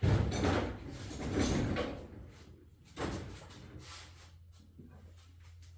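Metal tools being handled and rummaged, a sliding, rattling clatter for about two seconds with another knock at about three seconds, as sockets are sought to loosen the battery terminals.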